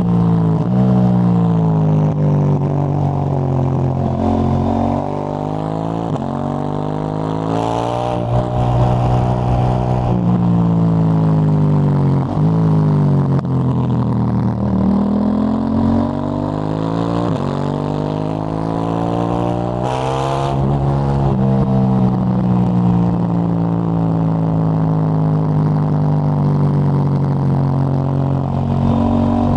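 KTM 890 Duke GP's parallel-twin engine through a Dominator HP8 slip-on exhaust, ridden on the road. The revs climb and break off again and again as it shifts up through the gears, fall away in a long drop as the bike slows, then pick up again and settle into a steady cruise near the end.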